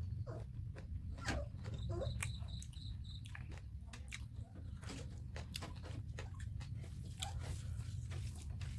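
Close-miked eating sounds: wet chewing, lip smacks and sticky clicks as curry-soaked rice is eaten by hand, over a steady low hum.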